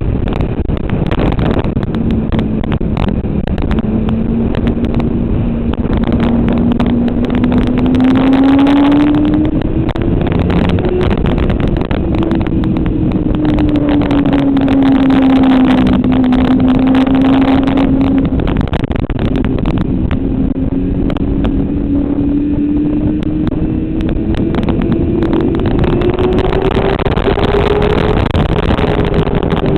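Motorcycle engine running hard while lapping a racetrack. Its pitch climbs slowly, drops back around ten seconds in, and climbs again near the end, over steady wind rush.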